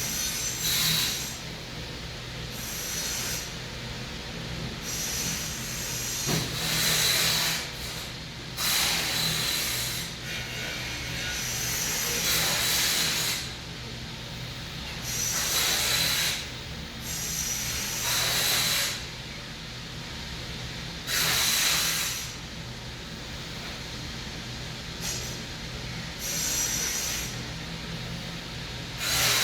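A person doing slow pranayama breathing through the nose: a long hissing breath about every three seconds, over a steady low hum.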